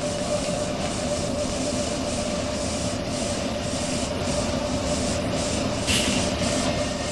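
A train running: a steady low rumble with a constant hum, and a brief sharp burst of noise about six seconds in.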